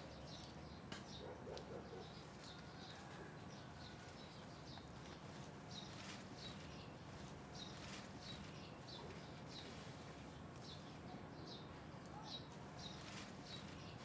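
Faint outdoor ambience of small birds chirping: short high chirps repeating about twice a second over a low steady hum.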